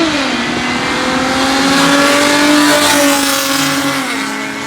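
A car accelerating hard past the spectators, its engine running at high revs. The engine note dips right at the start and again about four seconds in, climbing slowly in between, with a rushing noise that swells to its loudest past the middle and then fades as the car moves away.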